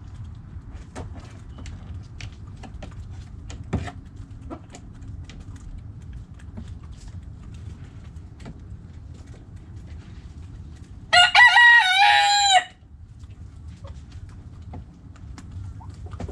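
A rooster crows once, a loud crow lasting about a second and a half, roughly two-thirds of the way through. Before it there are only scattered faint clicks over a low steady rumble.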